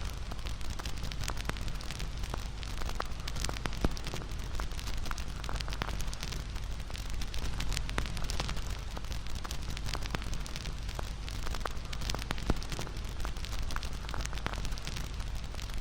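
Wood fire crackling and popping, many sharp snaps over a steady hiss of burning, with two louder pops, one about four seconds in and one near the end.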